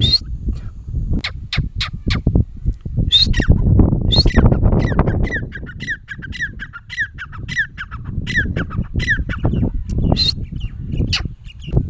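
Irani teetar (partridges) calling: several loud, sharp squawks, and from about four seconds in a quick run of repeated calls, about three a second, lasting some five seconds. A low rumble of noise runs underneath.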